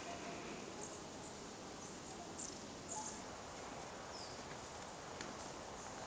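Scattered high, short chirps of small birds, a few of them sliding down in pitch, over a steady outdoor hiss.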